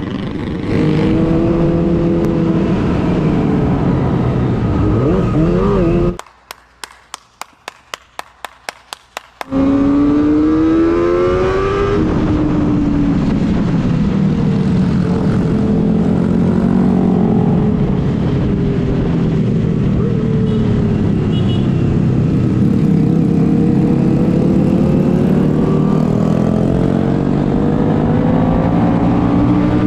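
Kawasaki ZX-25R's inline-four engine running under way, its pitch rising and falling with the throttle, over wind rush. About six seconds in the sound drops away for about three seconds, leaving only an even ticking about four times a second, then the engine comes back with a rising rev.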